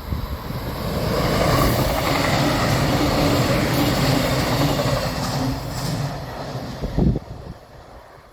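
A train passing at speed, its rolling noise building over the first second, holding loud for several seconds, then falling away. A short thump near the end.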